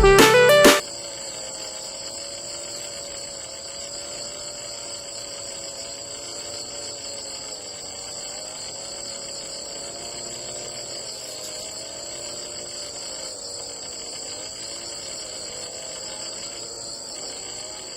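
Background music cuts off about a second in. After that comes a steady, high-pitched insect chorus, crickets trilling without pause, with a faint wavering low tone underneath.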